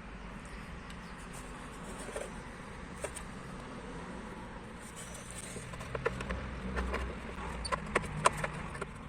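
Light clicks and taps of parts and tools being handled during installation work, few at first and coming thick and fast from about six seconds in, over a low steady background rumble.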